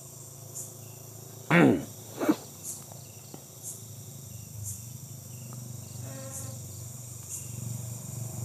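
Crickets and other insects chirping in a chorus, with a high pulse about once a second over a steady low hum. About a second and a half in come two loud, sharp sounds that fall steeply in pitch, a moment apart, and near six seconds a short fast rattle.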